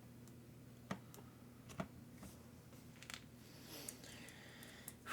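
A few faint clicks and light knocks of small parts and tools being handled, over a low steady hum.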